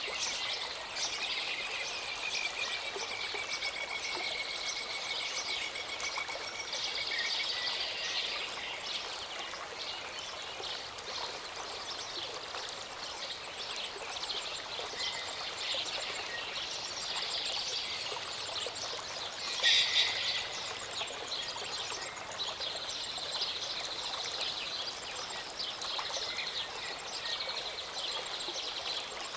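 A small mountain stream or waterfall running steadily, with several birds singing and chirping over it. A long, slightly falling whistled note comes early, and the loudest call is a short burst about two-thirds of the way through.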